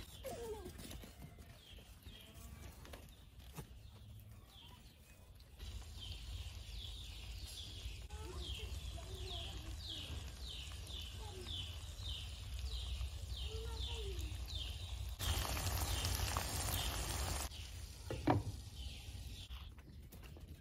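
Farmyard ambience: a small bird repeats a short, high, falling chirp about twice a second over a low wind rumble, with scattered lower animal calls. About two-thirds of the way through there is a two-second hiss, then a single short, sharp sound.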